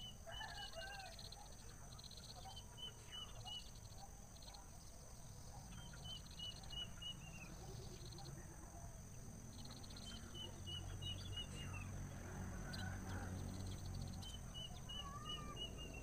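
A bird calling: runs of five to seven quick, high chirps, each run about a second long, repeated every three to four seconds, with fainter lower whistled notes between them over a steady low background rumble.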